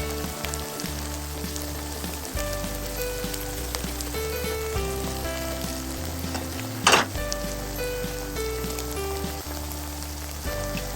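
Food sizzling and crackling in a hot frying pan, with a short, loud scraping or stirring noise about seven seconds in. Background music with held notes and a bass line plays throughout.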